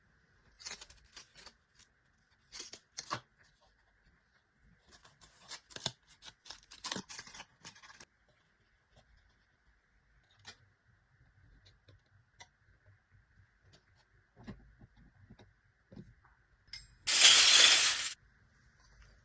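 Small plastic toy pieces and packaging being handled, with bursts of clicks and crinkling in the first half and scattered taps after. About seventeen seconds in comes one loud tearing sound lasting about a second, like packaging or tape being ripped open.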